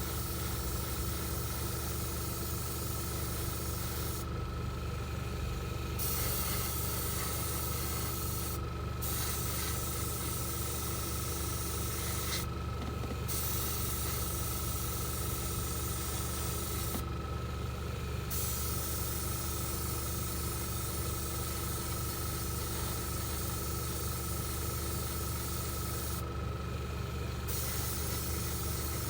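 Paint spraying onto the model: a steady hiss that stops briefly about five times, over a steady motor hum.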